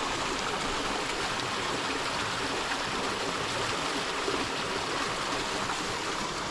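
Creek water running steadily over rocks, an even rushing of water.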